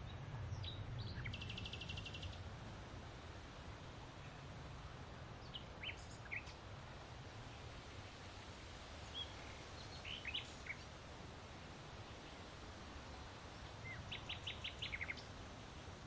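Small songbirds calling: scattered short chirps, a rapid buzzy trill near the start and a quick run of about six notes near the end, over a faint steady low outdoor rumble.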